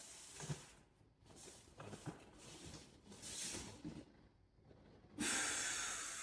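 Soft rustling and rubbing of hands on skin and clothing during a chiropractic shoulder treatment, with a couple of short, sharper sounds. About five seconds in, a steady hiss starts abruptly and slowly fades.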